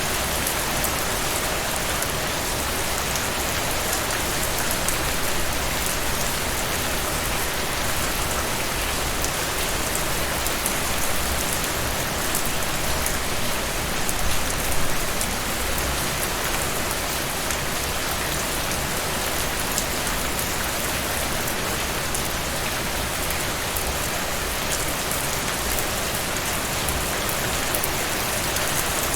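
Heavy rain falling steadily, a dense even hiss with many fine drop ticks, swelling slightly a few times.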